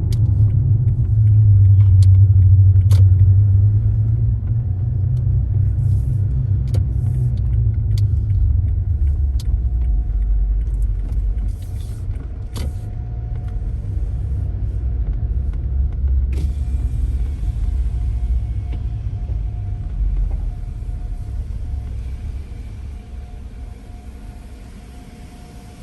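Low rumble of a car driving slowly, loudest early on and easing off gradually as it slows near the end, with a few scattered sharp clicks along the way.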